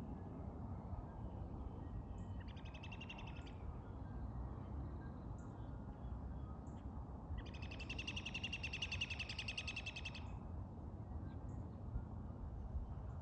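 A bird's rapid trill, heard twice: a short one about two and a half seconds in, and a longer one of nearly three seconds starting about seven and a half seconds in. Both sound over a steady low rumble.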